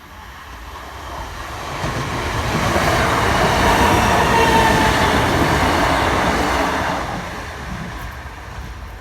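Electric multiple-unit passenger train passing over the level crossing: its running noise builds, is loudest about three to six seconds in, then fades away.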